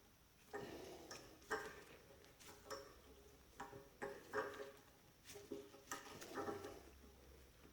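A hand tap cutting a 1/4-20 thread through steel flat bar with WD-40 on it. The tap wrench is turned in short strokes, giving faint, irregular creaky clicks one or two a second as the dull tap bites the steel.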